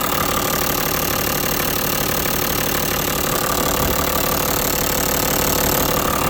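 Toyota 1HD-FTE 4.2-litre straight-six turbodiesel idling steadily, running with no air bubbles left in its fuel feed line.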